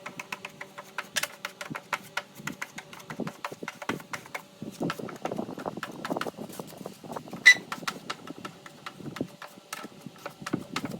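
Rapid, irregular clicking and tapping, several strokes a second, with one sharp, much louder click about two-thirds of the way through.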